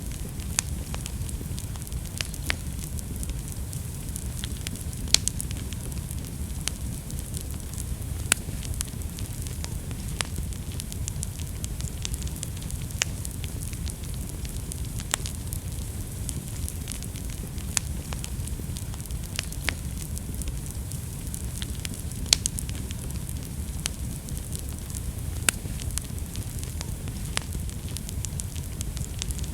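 Wood fire burning in a fireplace: a steady low rumble of flame with sharp, irregular crackles and pops every second or two.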